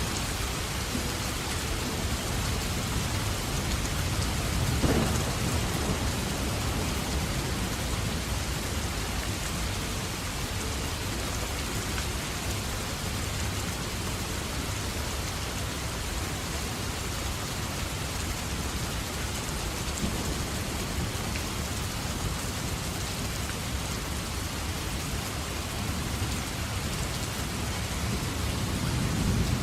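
Steady heavy rain, with thunder rumbling about five seconds in and again near the end.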